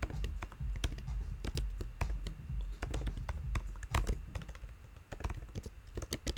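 Typing on a computer keyboard: a quick, irregular run of keystroke clicks, thinning out a little about five seconds in.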